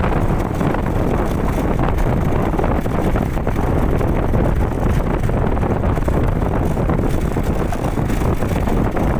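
Wind buffeting the microphone on a moving motorcycle, a loud steady rush mixed with the noise of the ride.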